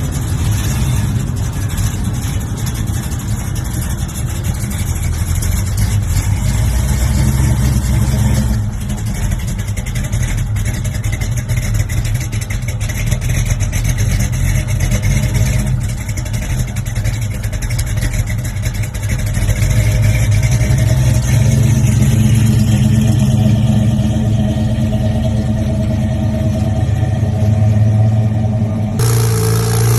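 Muscle car engines running and revving, with the sound changing abruptly about eight seconds in and again near the end as one car gives way to another.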